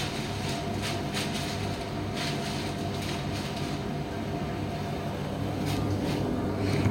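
Primus commercial tumble dryer running: a steady drone of the turning drum and fan motor, with a few faint soft knocks.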